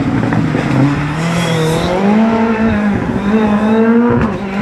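Porsche rally car engine accelerating hard. The engine note rises steadily and breaks briefly three times as it shifts up through the gears.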